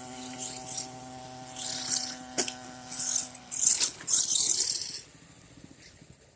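Small dirt bike engine running at a steady pitch, fading away about three and a half seconds in. Intermittent hissy rustling and a sharp click sit over it, then it goes quiet.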